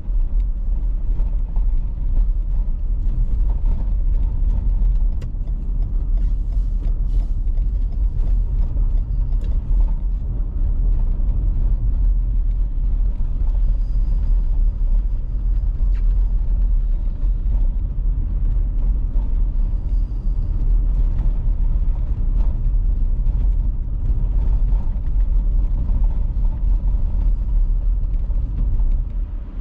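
Car driving on an icy road: a steady low rumble of tyres and road noise, with scattered small clicks and crackles throughout.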